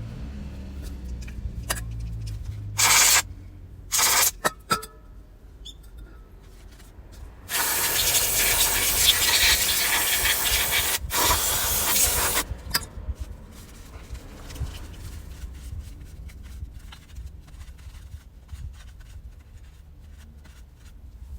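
Pressurised spray hissing: two short bursts about three and four seconds in, then one long blast of about five seconds, broken briefly near its end.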